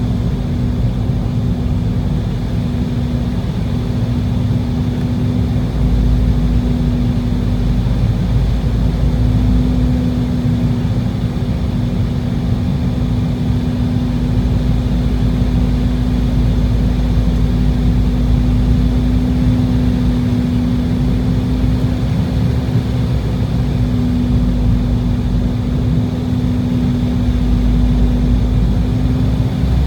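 Embraer E190 airliner in flight on approach, heard from inside the cabin: the steady drone of its GE CF34 turbofan engines and airflow, with a constant hum and a low rumble that swells a little about six seconds in and again near the end.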